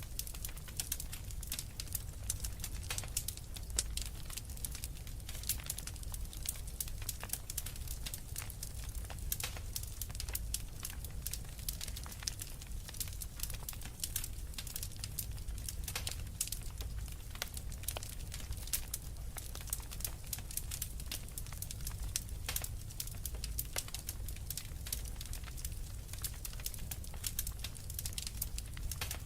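Wood fire in a fireplace crackling steadily: many small irregular snaps and pops from the burning logs over a low rumble.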